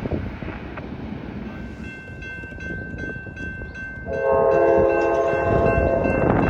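A diesel locomotive's multi-chime air horn sounds one blast of about two seconds, a few seconds in, over a bell that has started ringing, with the rumble of a passing train beneath.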